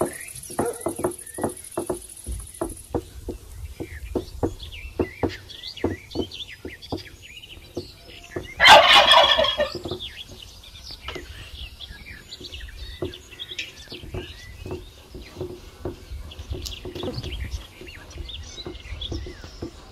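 A turkey gobbles once, loudly, for about a second, some eight and a half seconds in. Small birds chirp around it, over a run of light knocks.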